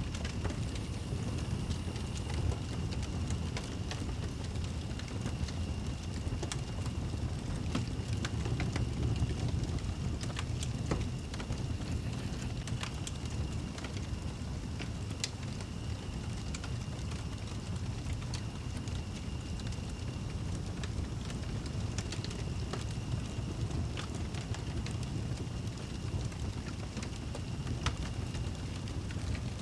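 Fireplace burning with scattered crackles and pops over a steady low rumble. A faint thin high whistle comes and goes.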